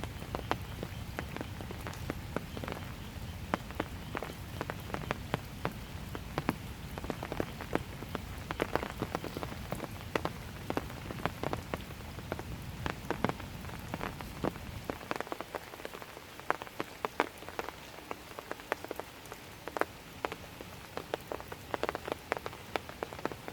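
Calm, steady rain with many irregular, close drops striking surfaces. A low rumble beneath the rain drops away about fifteen seconds in.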